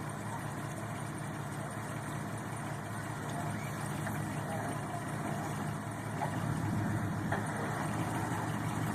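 A vehicle engine idling steadily, getting a little louder in the last few seconds.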